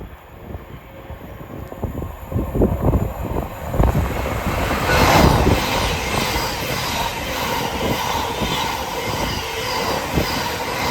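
A train approaching and running through the station: a rumble that builds over the first few seconds, then a loud, steady rush of wheels on rails from about five seconds in.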